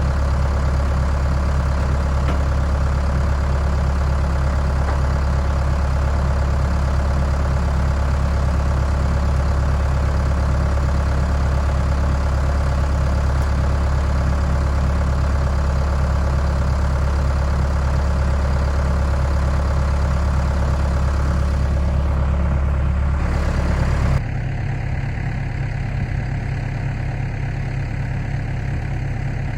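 Skid steer engine running steadily with a strong low hum. Near the end its note drops abruptly to a quieter, lower running.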